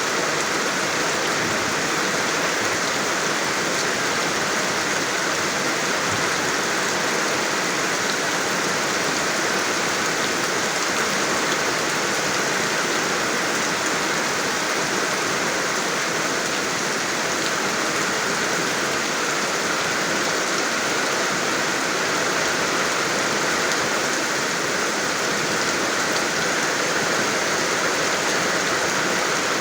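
Rain falling steadily, an even hiss without thunder or other breaks.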